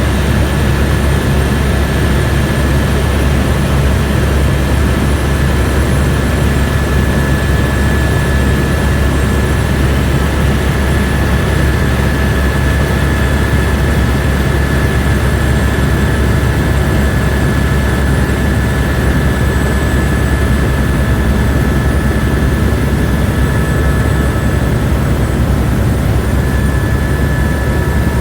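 Airbus AS350 B2 helicopter, its Arriel turboshaft engine and rotors running steadily, heard from inside the cabin as a loud, even low rumble with a steady high whine over it.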